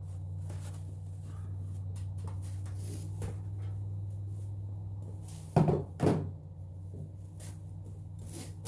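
Plastic clunks and light clicks as a truck's factory airbox is worked up and out of the engine bay, with two hard knocks about five and a half seconds in, over a steady low hum.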